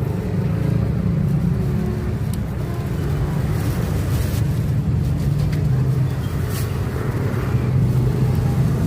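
Steady low hum of a motor vehicle engine running, with street traffic noise.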